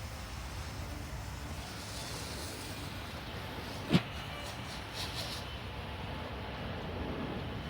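Boeing 787-9 Dreamliner's jet engines at takeoff power, heard from afar as a steady low rumble and hiss. A single sharp knock about four seconds in.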